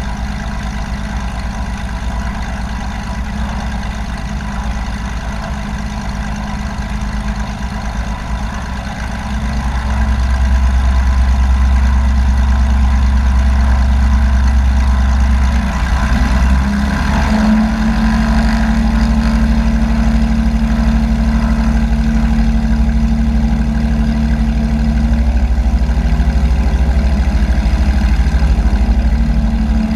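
Light aircraft piston engine running steadily, heard from inside the cabin. Power comes up about ten seconds in, and the engine note rises in pitch a few seconds later.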